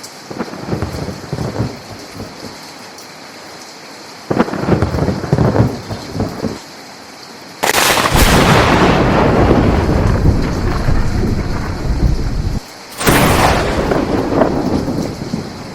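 Thunderstorm: steady rain with rolling thunder. Two short rumbles come in the first half, then a sudden loud thunderclap about eight seconds in that rumbles on for several seconds. A second sharp clap follows about thirteen seconds in and fades away.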